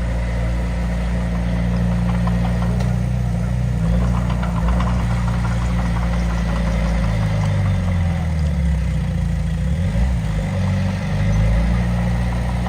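Heavy construction machine's diesel engine running at low revs: a steady low drone that shifts in pitch and load from about seven seconds in, with light rattling over it.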